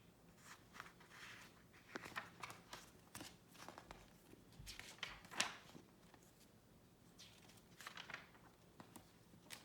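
Near silence with faint, scattered rustles and small clicks of a picture book being handled and its paper pages turned.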